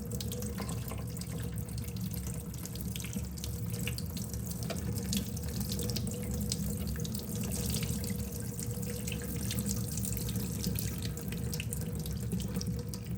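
Tap water running steadily into a sink, spattering over small plastic model parts held in a strainer as they are rinsed.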